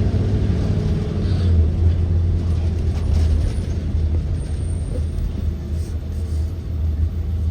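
Interior sound of a 2023 Blue Bird Vision school bus under way: its Ford 7.3L gasoline V8 and the road make a steady low rumble. The engine's note fades out about a second and a half in, leaving mostly drivetrain and road rumble.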